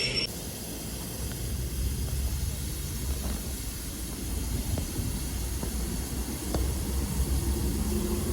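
A train's wheel squeal cuts off just after the start, leaving a steady steam-railway hiss over a low rumble, typical of a steam locomotive blowing off or standing in steam at close range.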